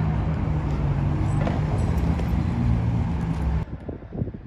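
A vehicle engine running steadily with a low, even hum. It cuts off suddenly about three and a half seconds in, leaving quieter street noise.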